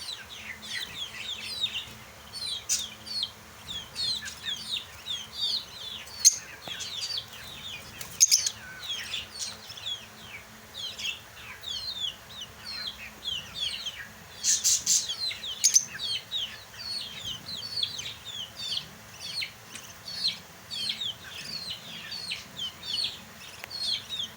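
A flock of lovebirds chattering: a continuous stream of short, high, falling chirps from many birds at once, with a few louder, sharper calls standing out.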